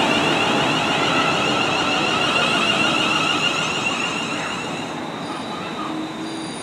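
Class 350 Desiro electric multiple unit running past on the rails and moving away, with wheel-on-rail noise that fades. A high wavering whine sounds over it and dies away about five seconds in.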